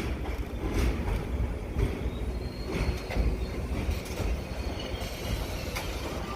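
New York City subway train running through the station with a steady low rumble and irregular clacks of wheels over rail joints. A faint, high wheel squeal comes in about two and a half seconds in.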